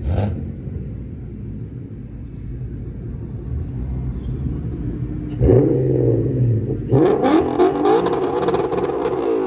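Car engines at a car meet: a low idling rumble, then an engine revving up sharply about five and a half seconds in, and from about seven seconds a louder, harsher engine run with crackling that carries on to the end.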